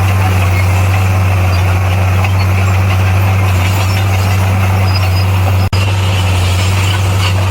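Komatsu bulldozer's diesel engine running steadily with a deep, even drone. The sound drops out for an instant about two-thirds of the way through.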